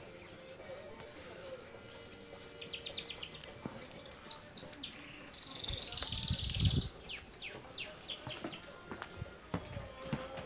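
Small birds chirping: rapid high trills, then a quick series of sharp downward-sweeping chirps. A brief low rumble comes about six seconds in.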